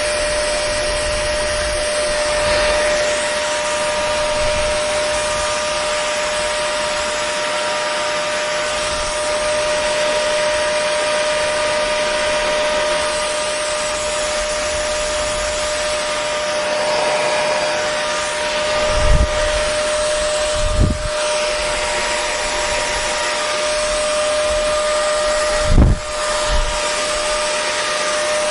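Hair dryer running steadily: an even rushing whir with a constant humming tone from the motor. Three short low bumps come in the second half.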